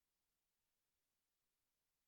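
Near silence: the sound track carries only a faint, even hiss and no audible sound.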